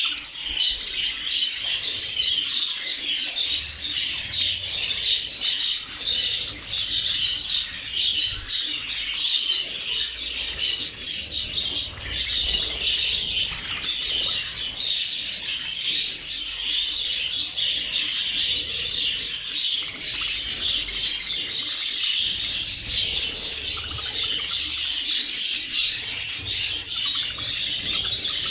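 A large flock of budgerigars chattering and chirping continuously, many birds calling at once in a steady dense warble.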